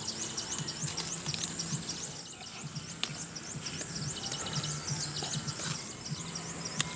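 Outdoor wildlife chorus: many small high chirps repeating quickly, over a steady high-pitched whine and a low pulsing hum.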